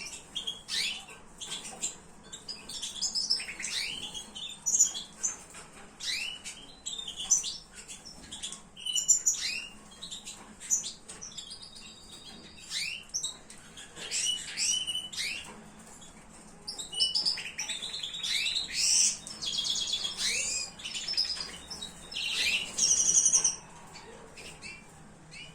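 Small finches chirping: many short high calls and quick trilled notes in an irregular stream, busiest in the second half.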